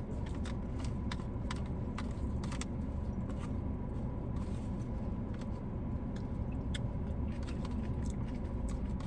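Close-up eating sounds: crunching and chewing of a Greek chicken salad, with irregular sharp clicks of a utensil and container, over a steady low hum.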